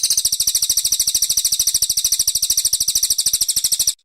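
Brown cililin songbird giving a high, rapid trill of evenly repeated notes, about seventeen a second, that stops abruptly near the end.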